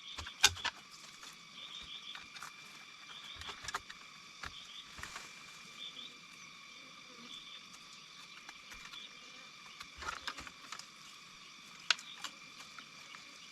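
Forest ambience: a steady, high insect drone with small repeated chirping calls over it, and scattered sharp clicks and knocks, the loudest about half a second in and others near the end.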